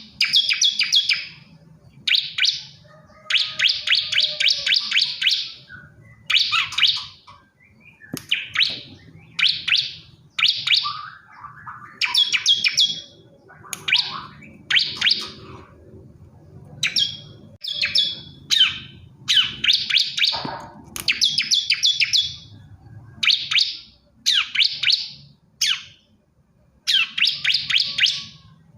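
Male bar-winged prinia (ciblek kristal) singing a song tagged as calling to a female: short bursts of rapid, high chirping notes, repeated about once a second with brief pauses between them.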